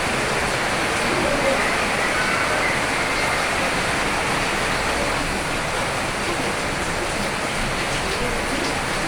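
Steady heavy rainfall: an even, unbroken hiss of rain.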